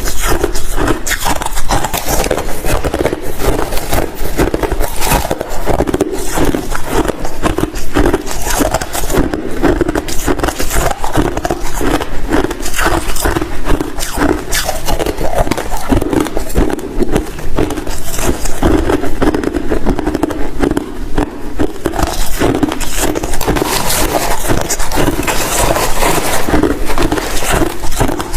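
Ice crunching close to the microphone: a loud, unbroken run of crunches and crackles.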